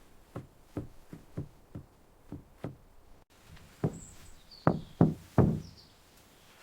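Hand-tool strikes in building work: a quick run of about seven dull knocks, then a few louder, slower blows. A few short high chirps sound faintly above them.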